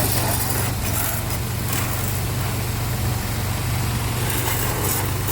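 Motor vehicle engine running steadily: an even low hum under a rushing noise, with a few brief hissing flares.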